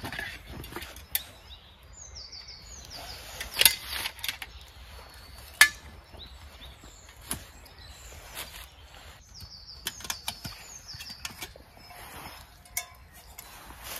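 A songbird singing short phrases of high notes that step downward, repeated several times, with a few sharp clicks or knocks among them, the loudest two about four and six seconds in.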